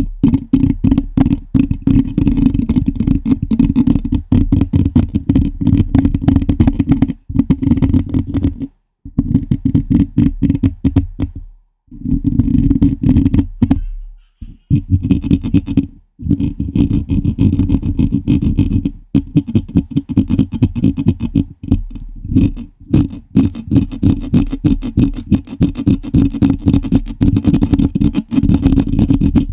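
Fingers scratching and tapping directly on a microphone in rapid, dense strokes that come through loud and boomy. The strokes break off for short pauses a few times around the middle.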